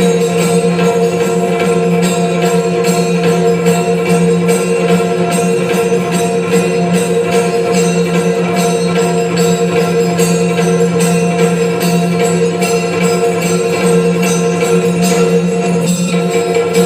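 Yakshagana performance music: a steady drone held under rhythmic percussion and jingling bells, with no singing heard.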